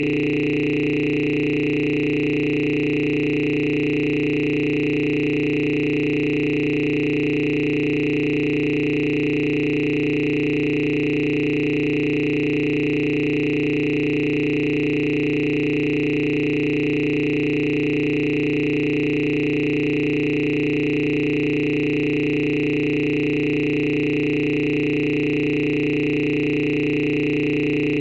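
A steady electronic drone of several held tones, low and high together, unchanging in pitch and loudness throughout.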